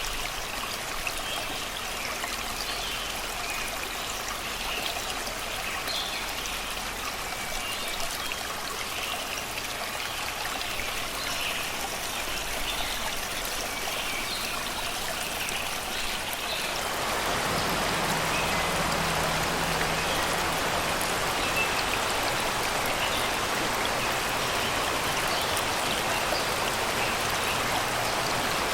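Shallow river running and rippling over rocks, with songbirds chirping through it. About two-thirds of the way through, the water becomes louder and fuller.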